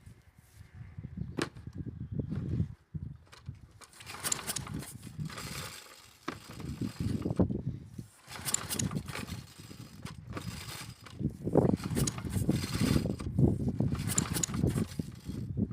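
Mountfield Emperor petrol lawnmower's recoil starter being pulled repeatedly on a cold start, the cord whirring out and the engine turning over without catching. Quieter handling sounds come first, then the pulls follow one after another from about four seconds in.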